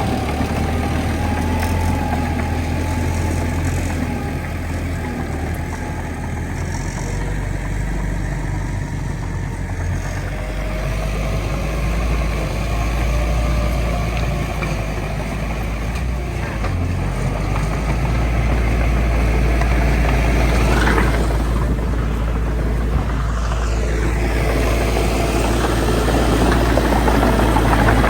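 Heavy diesel earthmoving machinery, a bulldozer and dump trucks, running with a steady low engine rumble that grows somewhat louder in the second half.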